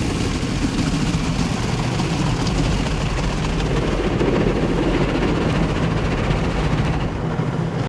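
Automatic car-wash machine running along the car and spraying water and soap onto the body, heard from inside the closed car: a steady low rumble under a constant hiss of spray.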